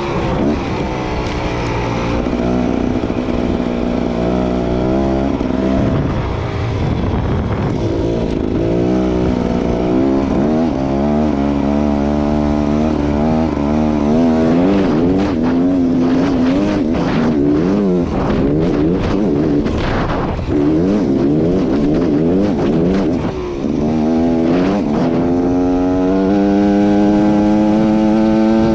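Beta Xtrainer two-stroke enduro motorcycle engine being ridden, its revs rising and falling again and again with the throttle. About halfway through there are scattered knocks and clatter, and near the end there is one long, steadily rising pull.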